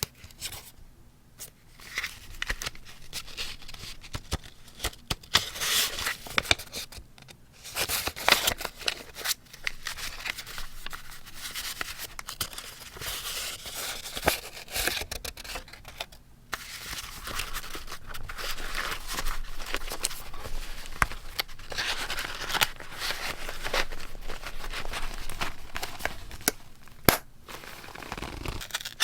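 Close-miked paper handling in scrapbook journaling: irregular rustling and crinkling of paper with sharp clicks, in uneven bursts with a couple of brief pauses.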